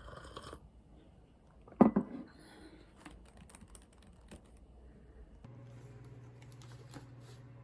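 Light clicking and tapping with one sharp knock, then a steady low electrical hum that switches on about two-thirds of the way through.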